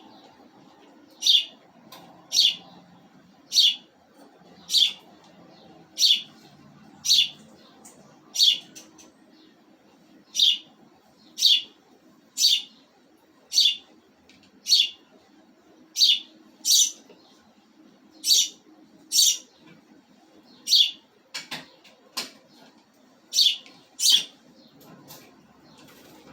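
A pet bird chirping: short, sharp, high calls repeated about once a second, with a brief pause about a third of the way through.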